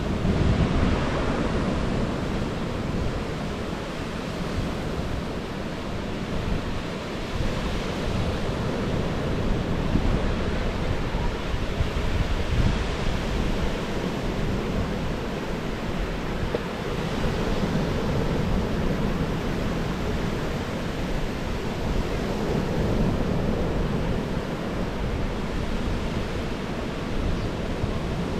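Ocean surf washing onto a sandy beach, rising and falling every few seconds, with wind rumbling on the microphone.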